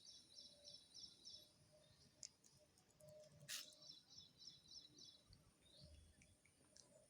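Faint bird song: a phrase of quick, high, chirping notes, heard twice, with fainter lower calls between. There is a brief sharp hiss about three and a half seconds in.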